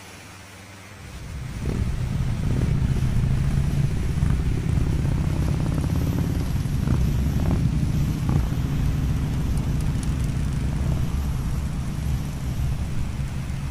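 Harley-Davidson Fat Boy's V-twin engine running under way. It gets louder about a second in, then holds steady with a few brief rises.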